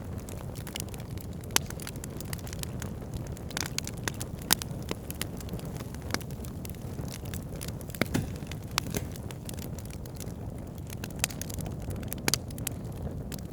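Wood campfire burning: a steady low rumble of flames with irregular sharp crackles and pops, a few louder snaps among them.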